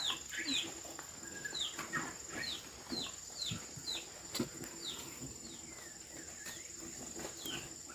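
Small birds, or chicks, chirping: about a dozen short, quick calls, each falling in pitch, irregularly spaced, over a faint steady high-pitched whine. A single sharp click sounds about four seconds in.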